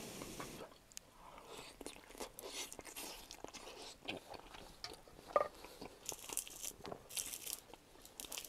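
People eating close to the microphone: chewing and crunching, with small irregular clicks and one sharper click about five and a half seconds in.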